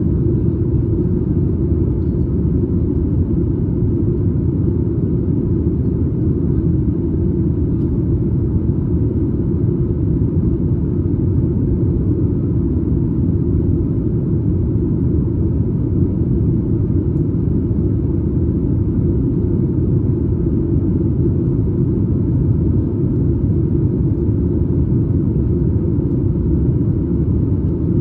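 Steady, low cabin rumble of a Boeing 737 MAX 8 airliner in flight, heard inside the cabin from a window seat just behind the wing.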